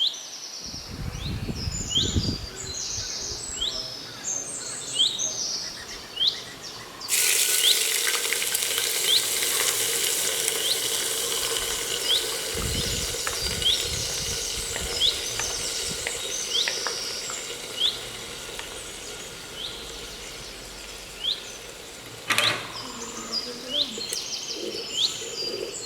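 Food sizzling in hot mustard oil in a cooking pot, a hiss that starts abruptly about seven seconds in and stops suddenly about twenty-two seconds in. A bird chirps over it throughout, a short note about once a second.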